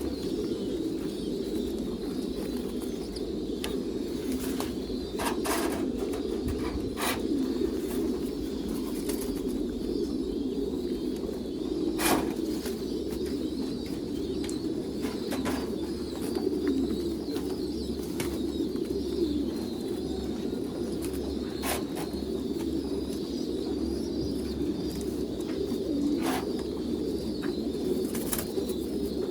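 Many domestic pigeons cooing together in a steady, continuous chorus. A few sharp clicks or knocks stand out here and there.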